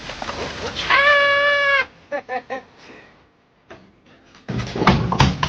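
An animal call: one long call held on a single pitch for just under a second, followed by a few short calls, then a loud noisy burst near the end.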